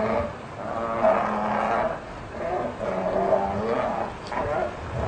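Wood stork nestlings begging at the nest: a chorus of wavering, nasal calls in runs of about two seconds, broken by short pauses.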